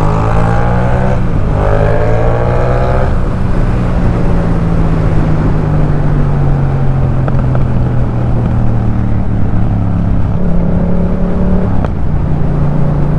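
Yamaha MT-07's 689 cc parallel-twin engine accelerating, its pitch climbing through two gears with a shift about a second in, then running steadily at cruising speed. Near the end the note changes again, with a brief break typical of another gear change.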